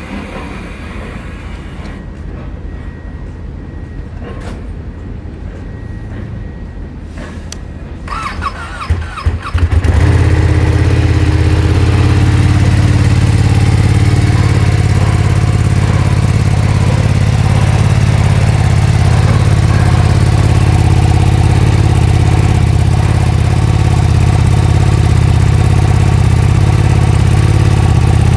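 Ducati Streetfighter V2's 955 cc Superquadro V-twin being started on its stock exhaust: a brief starter whir about eight seconds in, the engine catching about ten seconds in, then idling steadily and loudly.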